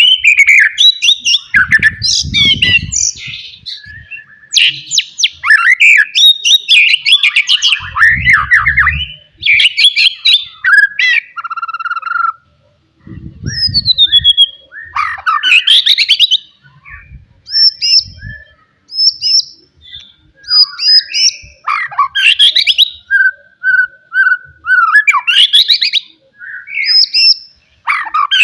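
White-rumped shama singing a loud, varied song: clear whistles, rapid trills and harsh chattering notes in quick phrases separated by short pauses.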